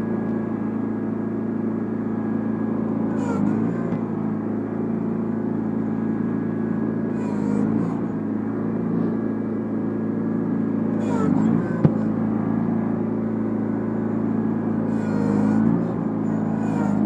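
John Deere 318 garden tractor's 18 hp twin-cylinder engine running steadily, with a brief hissing rush and a slight dip in engine pitch every few seconds, about five times.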